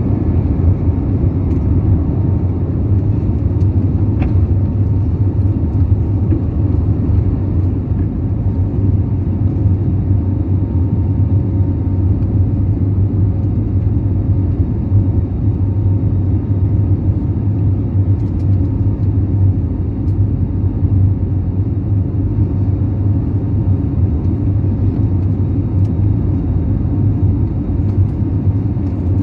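Steady jet airliner cabin noise heard from inside an Airbus passenger jet: an even low drone with a few faint steady tones above it.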